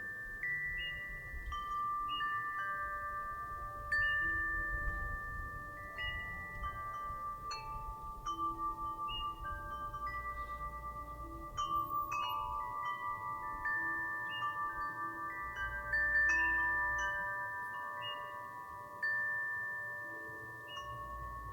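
Wind chimes struck irregularly by the wind, several bell-like notes at different pitches overlapping and ringing on for seconds as they fade. The wind itself rumbles low in passing gusts.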